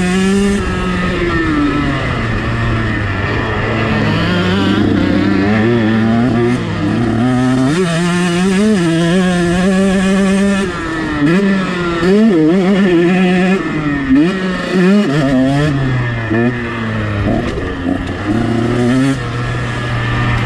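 2022 KTM 125 SX two-stroke single-cylinder motocross engine under hard riding, its pitch repeatedly climbing as the throttle is opened and dropping on shifts and throttle chops.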